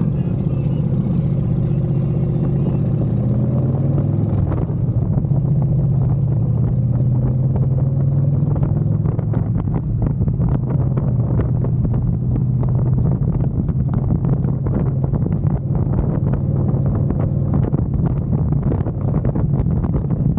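Motorcycle engine running under way, its pitch shifting in the first few seconds before settling, with wind buffeting the microphone.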